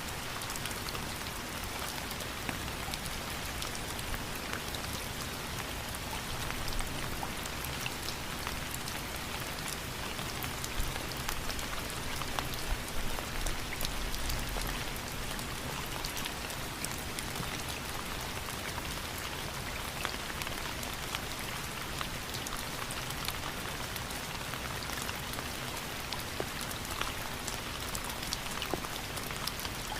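Steady rain falling, a constant hiss with many fine drop patters.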